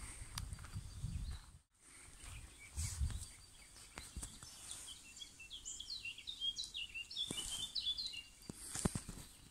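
A songbird singing a quick run of short, high chirping notes from about five seconds in. Low thumps and rumble on the microphone in the first few seconds.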